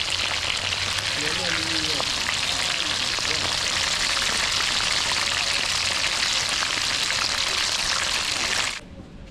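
Food sizzling and frying in hot oil in a cooking pot, a steady hiss that cuts off suddenly near the end.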